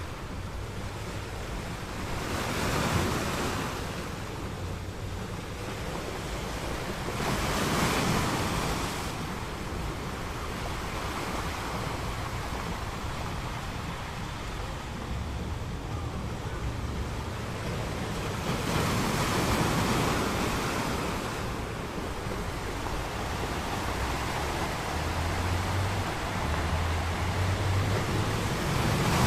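Ocean waves breaking on a beach, a steady rush of surf with louder swells as waves come in, about four times.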